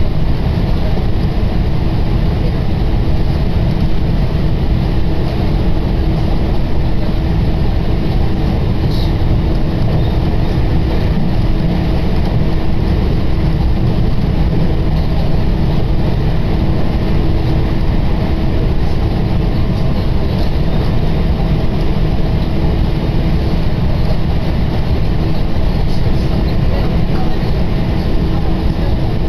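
Tokaido Line commuter train running at steady speed, heard from inside the passenger car: a loud, even rumble of wheels and running gear with a steady hum over it.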